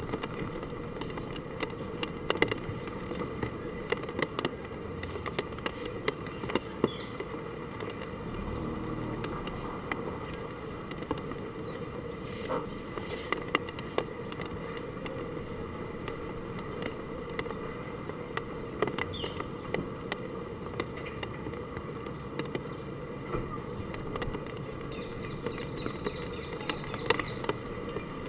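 Heavy typhoon rain pouring steadily, with many sharp irregular taps and splats of drops striking hard surfaces throughout.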